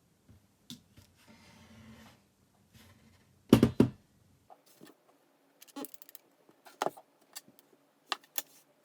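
Hand work on a small object at a bench: scattered clicks and knocks of tools and small parts being handled, a brief scrape about a second in, and a louder cluster of knocks near the middle.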